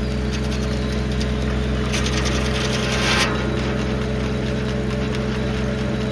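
1952 Farmall H's four-cylinder engine running steadily while powering a sawmill. About two seconds in, a burst of high-pitched noise lasts just over a second.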